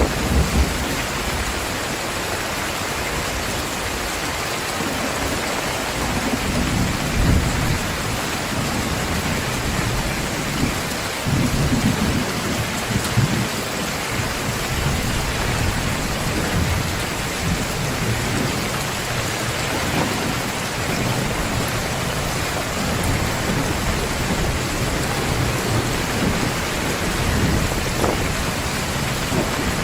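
Heavy rain pouring steadily in a thunderstorm, with low thunder rumbling at intervals: near the start, around a third of the way in, and again later on.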